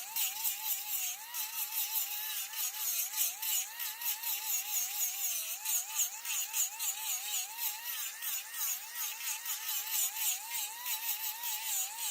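Woodworking lathe running with a cutting tool on spinning mahogany: a motor whine that wobbles up and down in pitch a couple of times a second, over a fast, fine ticking and scraping from the cut.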